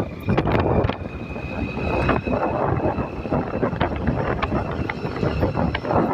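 Rumbling vehicle noise with wind buffeting the microphone, a thin steady high whine over it, and a few scattered clicks.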